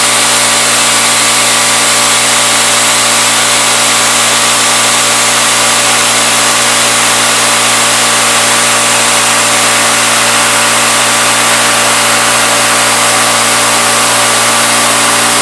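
CNC-retrofit Bridgeport knee mill running, its spindle at 2200 rpm driving a 3/8-inch end mill through aluminum: a loud, even machine noise with a few constant hum tones underneath.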